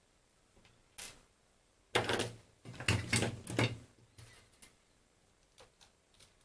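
A BeoCom 2 handset and its plastic parts being handled and moved about: a sharp click about a second in, a burst of clattering and rubbing between about two and four seconds, and a few faint clicks near the end.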